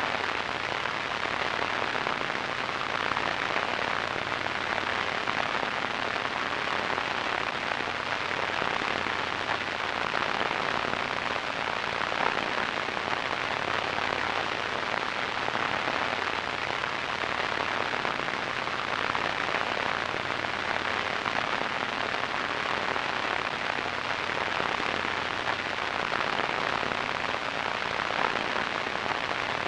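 Radio static: a steady, even hiss with a fine crackle, strongest in the middle range, with a faint low hum beneath.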